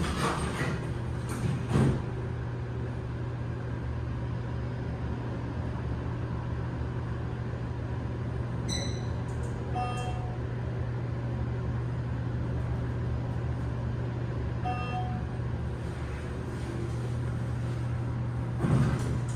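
KONE passenger elevator car travelling between floors, a steady low hum throughout. The door thuds shut about two seconds in and starts sliding open near the end. Short electronic beeps sound a few times in the middle.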